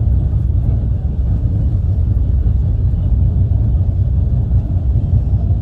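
Train running on the track: a steady, loud, low rumble with no distinct knocks or horn.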